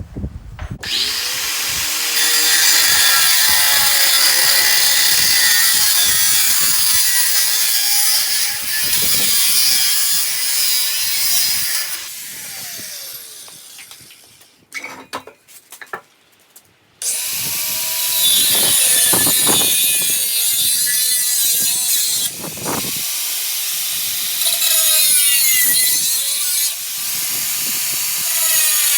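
Power tool cutting through a steel exhaust pipe: a loud, harsh hiss whose pitch bends up and down as it bites. It runs in two long cuts with a pause of a few seconds about halfway.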